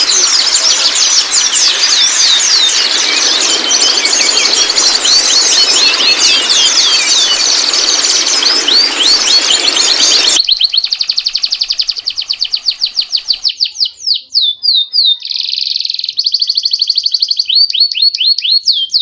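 White-rumped shama song: a dense, varied run of notes over a steady hiss. About ten seconds in, it cuts abruptly to a cleaner recording of a fast rattling trill, then quick sweeping notes and buzzy stretches.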